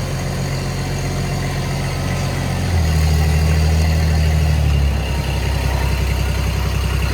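Old choke-started tractor engine running just after a cold start, unhappy and uneven on part choke. It speeds up about three seconds in, then drops back and runs choppily.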